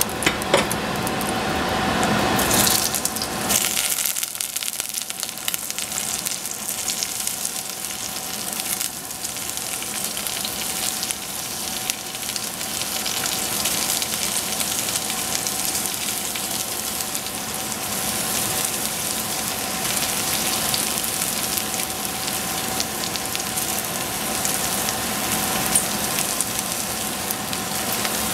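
Oyster mushrooms frying in hot oil in a stainless steel pot, a steady hissing sizzle, louder and fuller in the first three seconds, with the light scrape of the pieces being turned.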